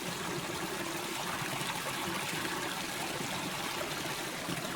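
Creek water running and trickling steadily over rocks.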